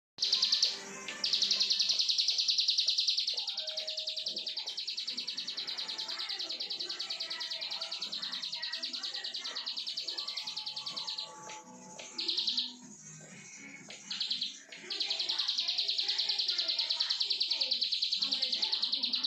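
A prinia (ciblek sawah) singing a long, rapid, high-pitched buzzing trill, the non-stop 'brenn' song prized by songbird keepers. It trills unbroken for about ten seconds, breaks into two short bursts, then trills steadily again.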